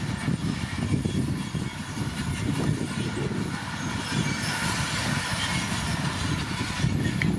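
Komatsu D41P bulldozer's diesel engine running steadily, with the clatter of its steel tracks.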